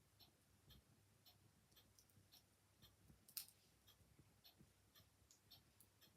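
Clock ticking steadily, about two ticks a second, with faint crackling from a fire and one sharper pop about three and a half seconds in.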